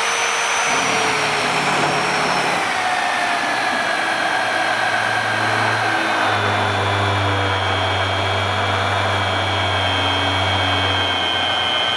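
Magswitch MagDrill Disruptor 30 magnetic drill running under load as its cutter bores a hole in metal: a steady high motor whine that sags slightly in pitch a few seconds in, with a low hum from the cut that grows stronger about halfway through.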